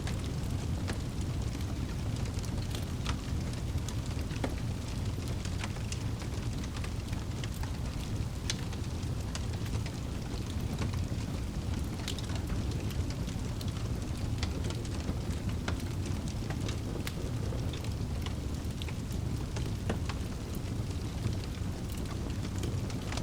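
Wood fire burning in a fireplace: a steady low rumble of flames with scattered sharp crackles and pops from the logs, a few a second.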